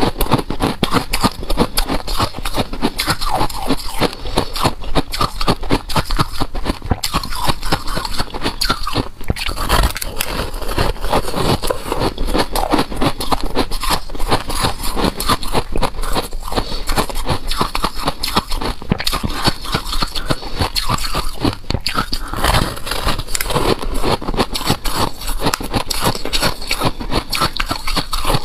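Close-miked chewing of a mouthful of freezer frost: a rapid, dense crunching and crackling.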